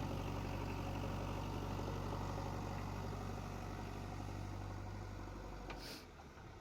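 JCB 3DX backhoe loader's diesel engine running steadily, then dropping in level about six seconds in, with a brief hiss just before the drop.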